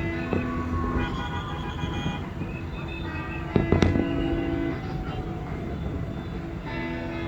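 Fireworks bursting in the sky: a few sharp bangs near the start and a louder cluster about three and a half seconds in, over the show's accompanying music with long held notes.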